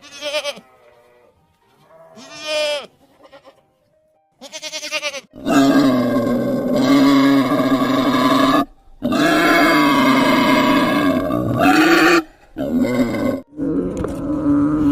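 Animal calls: a few short bleat-like calls, then from about five seconds in, long, loud, drawn-out calls of about three seconds each, with short breaks between them.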